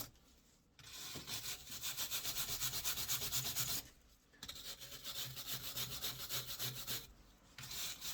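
Rapid back-and-forth scrubbing of an abrasive on a car's exhaust pipe, cleaning around the leak before the repair paste goes on. It comes in three stretches with short breaks between them.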